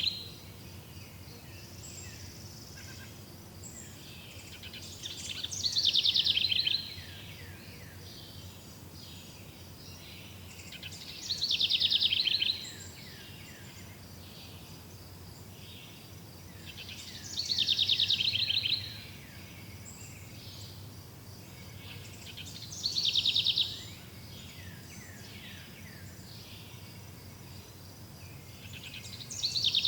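A forest songbird repeating the same song phrase about every six seconds, each a quick run of falling high notes lasting one to two seconds, over a faint steady high insect drone.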